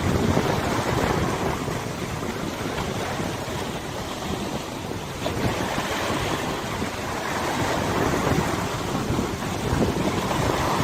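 Wind rushing over a wide river, with water washing and wind buffeting the microphone. It makes a steady noise that swells and eases.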